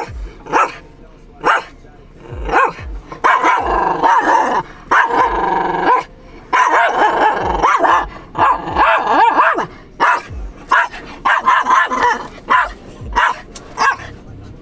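A dog barking. There are single sharp barks at first, then two long unbroken stretches of barking from about three to nine seconds in, then more single barks near the end.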